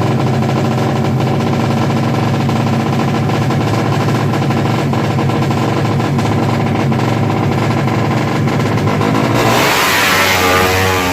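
Drag-race motorcycle engines from Yamaha Jupiter MX bikes tuned up to 300cc, running steadily. About nine seconds in, a louder, rougher engine sound with wavering pitch breaks in as a bike accelerates hard.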